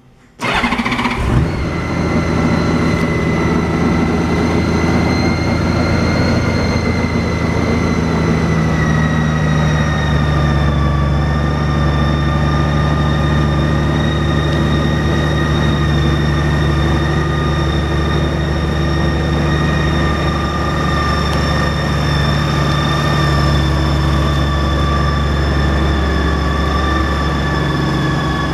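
Honda GL1800 Goldwing's flat-six engine starting about a second in, then idling steadily. A high whine sits over the idle and eases slightly in pitch about ten seconds in.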